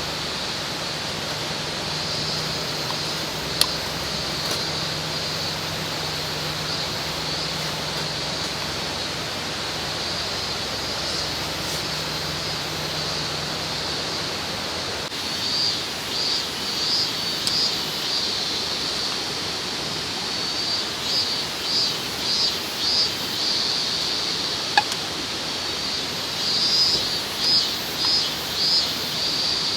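A mountain stream rushing steadily. A high-pitched call runs over it and begins pulsing about twice a second from about halfway through.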